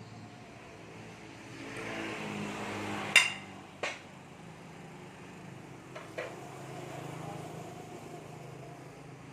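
Sharp metallic knocks: a loud one about three seconds in, a second shortly after, and two lighter clicks around six seconds, over a steady low hum.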